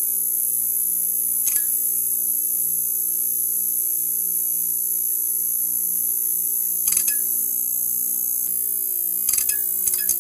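Neon sign buzzing: a steady low hum under a constant high hiss. Brief crackles come about a second and a half in and around seven seconds, and several more near the end.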